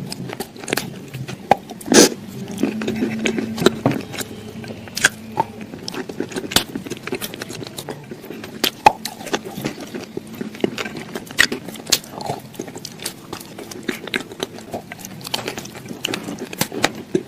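A string of irregular sharp clicks and knocks, several a second, the loudest about two seconds in.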